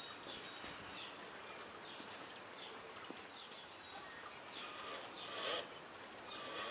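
Birds chirping now and then over a faint outdoor background hiss.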